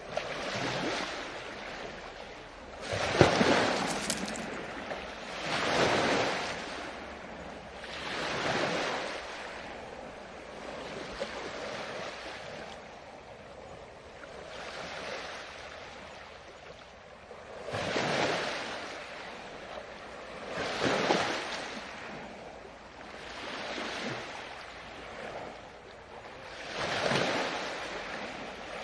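Ocean surf, waves breaking and washing in one after another, each a rush that swells and fades about every three seconds. The loudest break comes about three seconds in.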